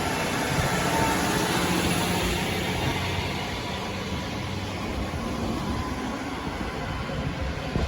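KiHa 40 diesel railcar running, a steady engine rumble with faint drawn-out tones that fade away over the first few seconds.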